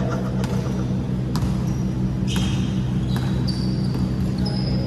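Basketball bouncing on a court floor, a sharp knock about once a second, over a steady low hum, with short high squeaks in the second half.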